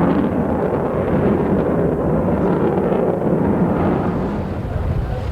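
B-1B Lancer's four General Electric F101 turbofan jet engines rumbling as the bomber flies past, a loud, steady low roar that eases slightly near the end.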